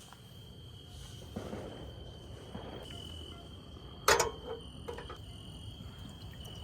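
Crickets chirring in a steady high tone, with light rustling and one sharp knock about four seconds in, followed by a few small knocks.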